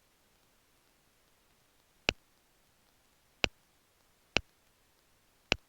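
Four sharp single clicks, irregularly spaced about a second apart, against near-silent background hiss.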